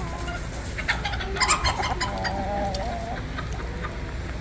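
Chickens clucking and calling, with a few sharp squawks about a second and a half in and a drawn-out, wavering call in the middle.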